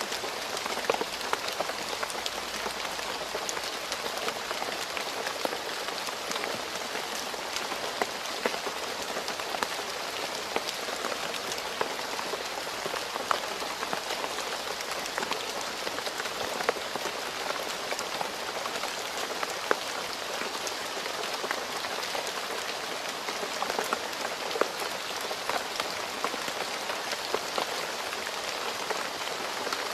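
Steady rain falling on a road surface: an even hiss with many small, sharp drop splats scattered through it.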